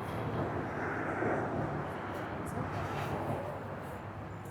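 Steady low vehicle rumble with indistinct voices in the background.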